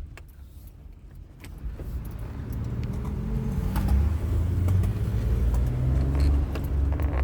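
Car engine and road noise, quiet at first, then building over the first few seconds to a steady low rumble as the car gets moving, with scattered light clicks and rattles.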